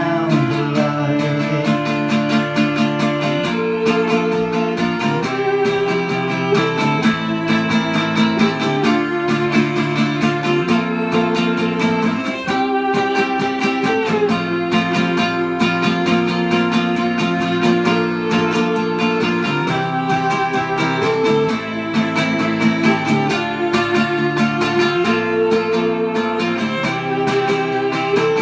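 Live instrumental passage of a chamber folk song: acoustic guitar strummed and picked under viola, with the notes changing every second or two.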